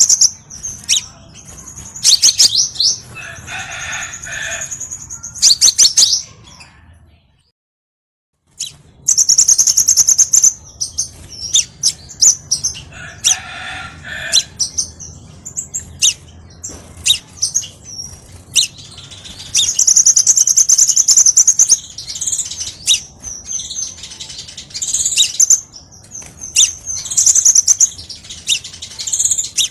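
Crimson sunbird (sepah raja) song: rapid, high-pitched chirps and trills with sharp ticking notes, broken by a silent gap of about a second and a half some seven seconds in.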